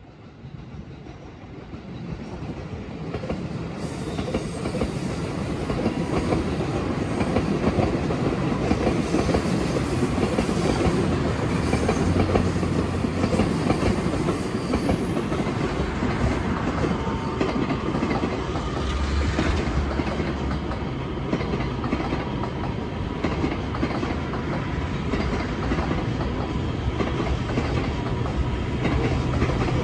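Electric suburban trains running along the tracks, wheels clacking over the rails. The sound grows over the first few seconds as a train comes close, then holds steady.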